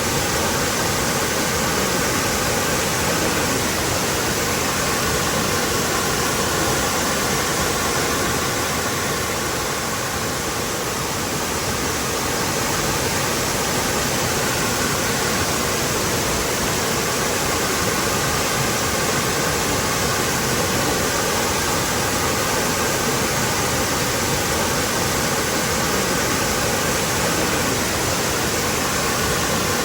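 Waterfall rushing: a steady, full wash of falling water with a slight dip in level about ten seconds in.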